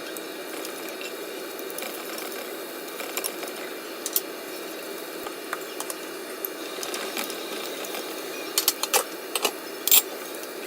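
Kitchen cooking sounds: a steady hiss with scattered sharp clicks and clatters that bunch together near the end, the last one the loudest.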